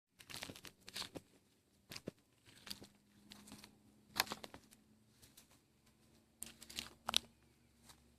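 Irregular rustling and crackling in short clusters with pauses between, the sharpest crackles about four seconds in and around seven seconds, over a faint low hum.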